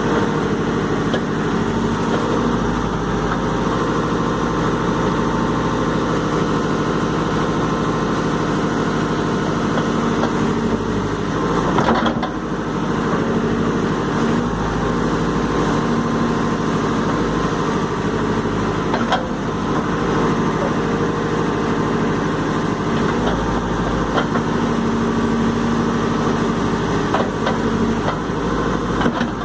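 Caterpillar 416E backhoe loader's diesel engine running steadily while digging, rising and easing slightly as it works. A few sharp clanks, clearest about twelve and nineteen seconds in.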